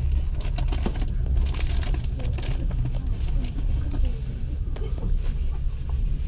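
Interior of a moving passenger railway carriage: a steady low rumble from the running gear with irregular clicking and rattling over it.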